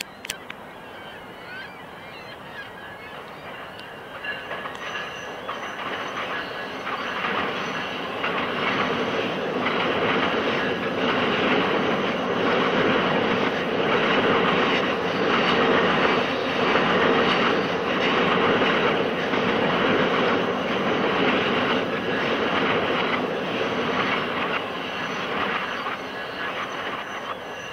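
Passenger train passing over a steel truss bridge: the rumble of its wheels builds, peaks about halfway and fades. A regular clacking comes about once a second, with a thin high squeal from the wheels above it.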